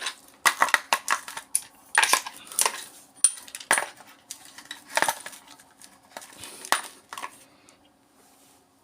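Clatter of hand tools against a plastic power adapter case as it is worked open: a run of irregular sharp clicks and knocks that stops about seven seconds in.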